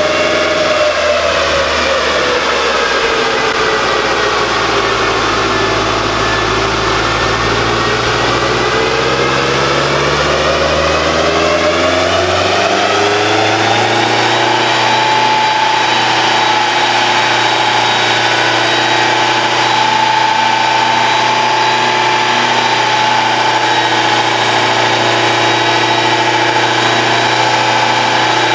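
Turbocharged Subaru Crosstrek's FB20 flat-four engine running. Its note falls over the first several seconds and climbs again, then about halfway through settles and holds a steady speed.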